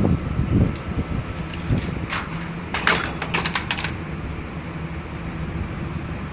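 A steady low mechanical hum from running equipment, with a few dull knocks and then a quick run of sharp clicks and rattles about two to four seconds in, as of tools and metal panel parts being handled.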